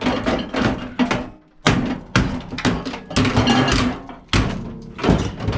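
Ball peen hammer striking a metal microwave part to knock copper out: a series of heavy blows, roughly one a second, each ringing briefly.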